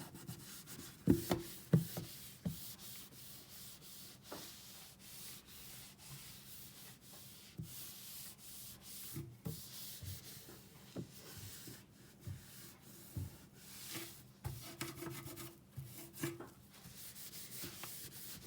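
Disinfecting wipe rubbed back and forth across a kitchen counter, with a couple of sharp knocks about a second in.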